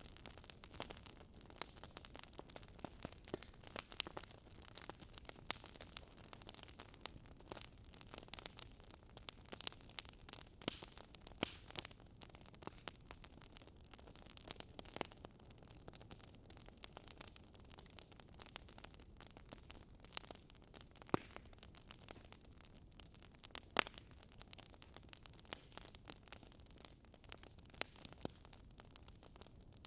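Wood fire crackling: irregular sharp pops and snaps over a soft steady hiss, with a few louder pops scattered through.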